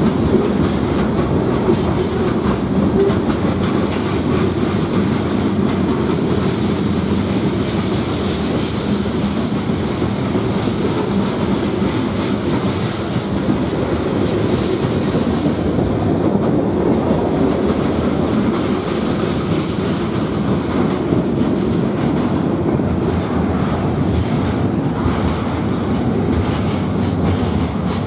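Freight train's cars, mostly tank cars, rolling past on steel wheels and rails: a steady, unbroken rumble that neither builds nor fades.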